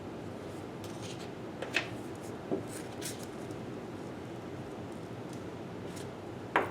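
A plastic palette knife spreading drywall spackle over a foam cake dummy: a few faint, short scrapes and clicks over a steady low hum, the sharpest one near the end.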